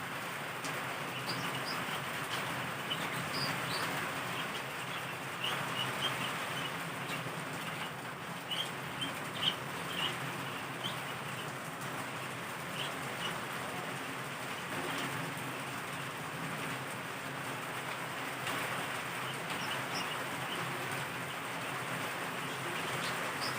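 Heavy, torrential rain pouring down as a steady hiss, with scattered brief high ticks.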